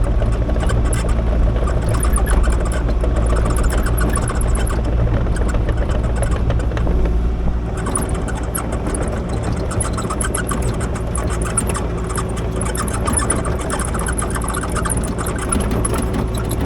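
Kubota KX040 mini excavator's diesel engine running steadily, with a light rattle over it.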